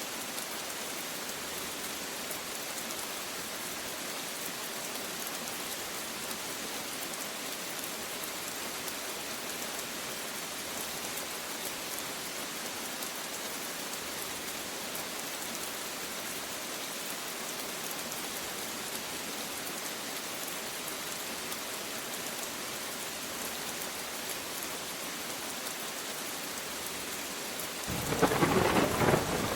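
Steady rain falling, an even hiss. Near the end a loud clap of thunder breaks in suddenly and rolls on.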